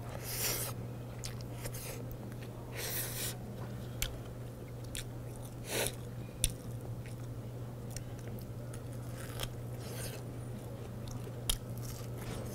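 A person chewing and biting crunchy fried food, with scattered small clicks and a few short crunches, over a steady low hum.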